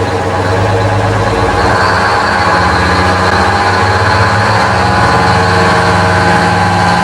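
GMC 9500 truck's Detroit Diesel 6-71N, a naturally aspirated inline-six two-stroke diesel, running just after start-up. Its note rises about two seconds in and then runs steadily.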